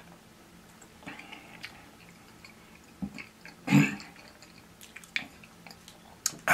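A man chewing a mouthful of pancake and sausage with his mouth closed: soft, wet mouth clicks and smacks. A short, louder noise comes a little past halfway, and another at the very end.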